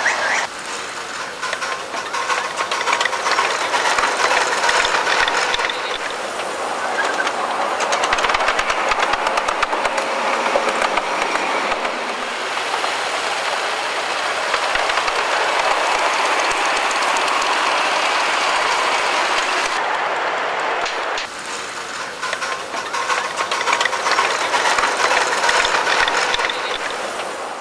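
Miniature live-steam railway train running along the track: a steady rushing noise laced with fast, dense clicking from the wheels and running gear.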